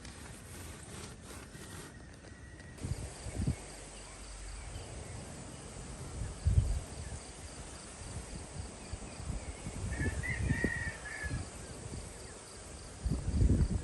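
Outdoor ambience with a bird calling briefly about ten seconds in, over scattered low rumbling bumps, like wind or handling on the microphone.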